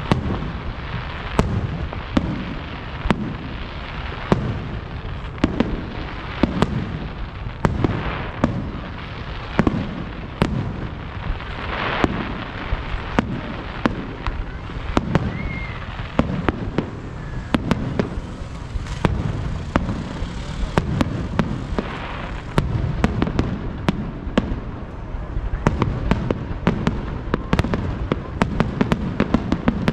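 Aerial fireworks going off in quick, irregular succession: sharp bangs and deep booms over a continuous crackle. The bangs come faster and closer together near the end.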